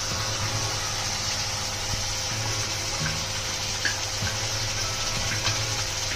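Thick curry gravy sizzling and bubbling in an iron kadhai on a gas flame: a steady hiss with a few faint pops and clicks.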